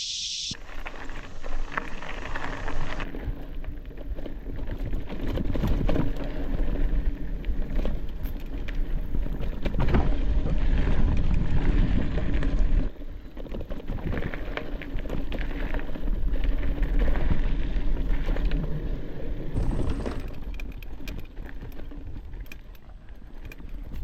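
Mountain bike riding a trail: wind buffeting the microphone over tyre noise and the rattle of the bike on rough ground. The sound changes abruptly a few times.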